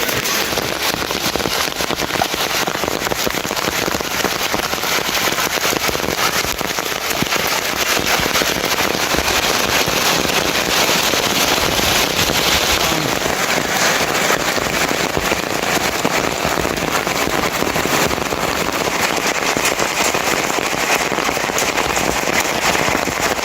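Heavy rain falling steadily: a loud, dense crackle of drops striking a hard surface.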